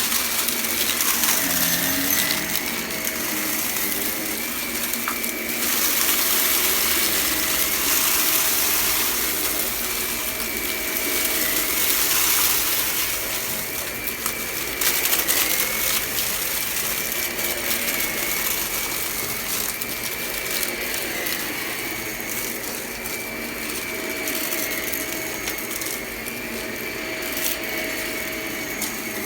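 Vacuum cleaner running steadily with a faint high whine, crackling and clicking as it sucks up crunchy debris.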